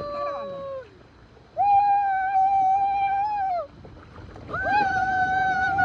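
A person screaming in long, high held cries: one trailing off early on, another of about two seconds a moment later, and a third starting near the end, each falling in pitch as it ends.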